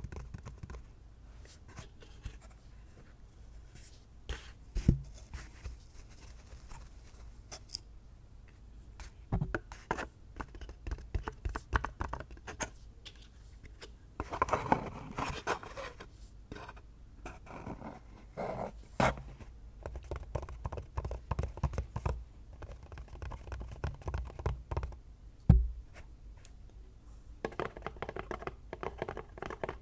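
Fingertips and nails tapping and scratching on assorted objects, in quick irregular runs of light clicks, with a busier stretch around the middle. Two louder knocks stand out, one about five seconds in and the loudest near the end.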